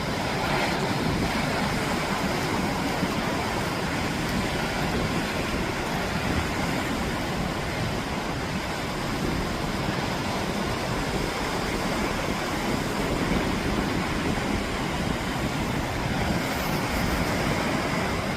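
Steady rushing noise of surf and wind along the shore, with wind rumbling on the microphone; it cuts off suddenly at the end.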